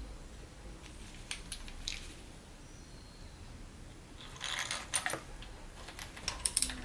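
Light metallic clicks and clinks of hand tools and metal parts being handled, with a denser patch of rattling clicks about four and a half seconds in and more clicks near the end.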